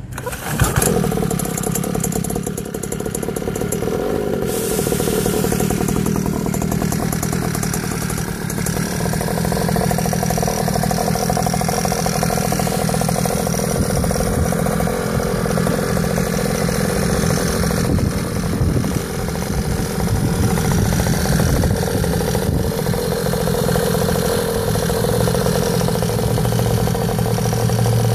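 Small 49cc two-stroke mini dirt bike engine starts about half a second in, then runs steadily at idle.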